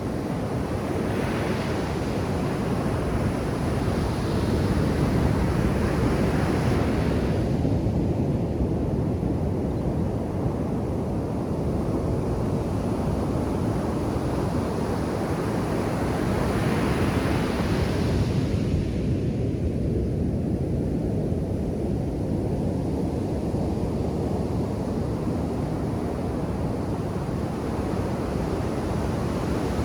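Ocean surf breaking on a sandy beach: a continuous wash of waves that swells twice, a few seconds in and again a little past halfway.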